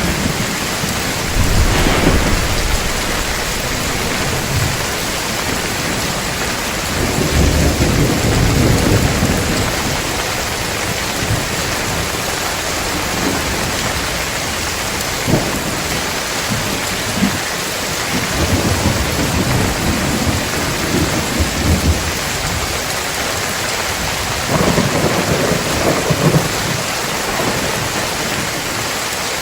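Steady heavy rain with several low rolls of thunder, a few of them with short sharp cracks.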